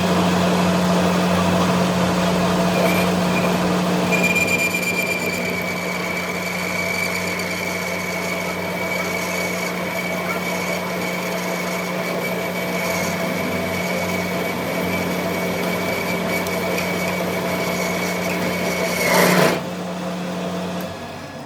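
A powered shop machine or tool runs steadily with a low hum. A high, steady whine joins about four seconds in and stops after a brief louder burst near the end.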